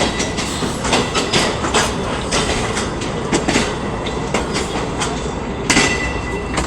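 Passenger train coaches rolling along the track, the wheels clicking repeatedly over rail joints over a steady rumble, with a brief high wheel squeal near the end.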